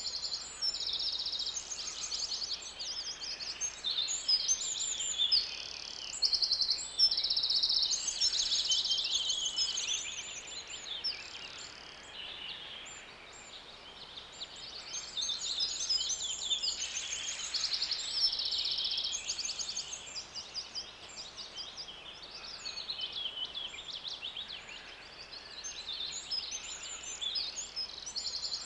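Birdsong: high chirps and fast trills of rapidly repeated notes, coming in bursts, with a quieter spell about halfway through.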